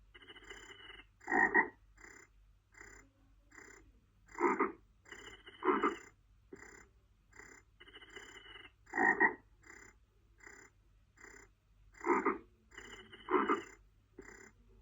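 Frogs croaking in a steady rhythm of short calls, about two or three a second, with louder croaks in pairs every few seconds. A faint, regular high chirping runs above them.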